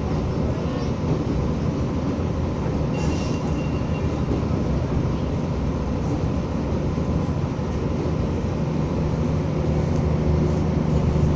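Materfer diesel railcar running along the track, a steady low rumble with its engine note growing louder toward the end. There is a brief hiss about three seconds in.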